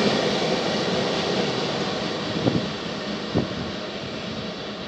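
An electric passenger train with an E414 locomotive at its tail runs away through the station, its rumble fading steadily. Two short knocks from the wheels on the track come about two and a half and three and a half seconds in.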